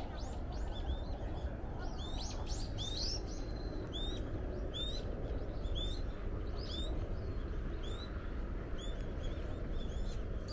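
Small birds chirping: a run of short, high chirps, about one or two a second, over a steady low background hum.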